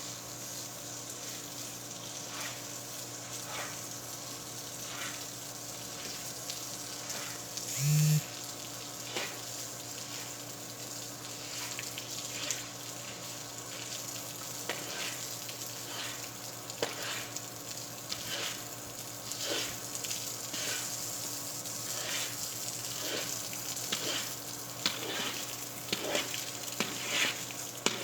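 Food sizzling in a hot frying pan, with scattered crackles and scrapes that grow busier in the second half. One short, loud clunk comes about eight seconds in.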